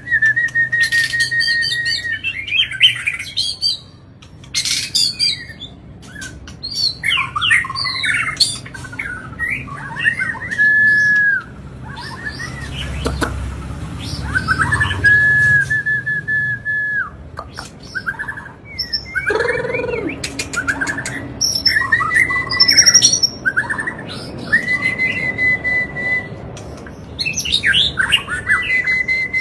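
White-rumped shama (murai batu) singing nonstop: long, steady whistled notes held for a second or two, broken up by quick varied phrases, sharp chips and trills.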